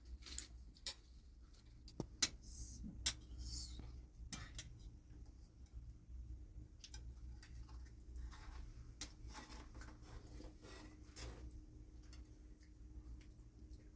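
Spoons clinking and tapping against dishes in scattered light clicks as people eat.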